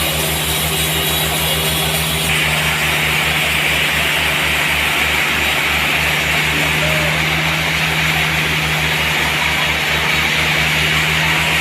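Sawmill running: a steady engine throb with a constant hum, and a hiss from the saw that grows louder about two seconds in, as when the blade bites into the trembesi log.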